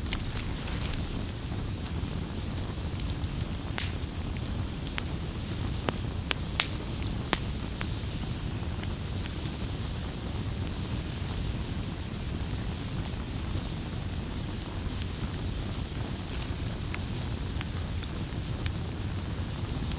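Wood campfire crackling: sharp snaps and pops scattered over a steady low rumble of the burning fire. The pops come most often in the first several seconds and thin out later.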